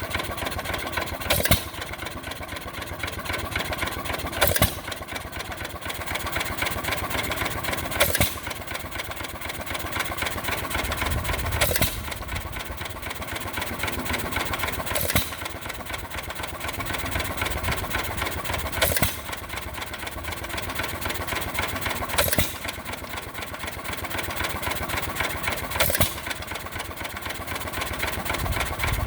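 1945 John Deere E 1½ hp single-cylinder hit-and-miss gas engine idling. It fires about once every three and a half seconds and coasts on its flywheels with a steady light clatter between firings.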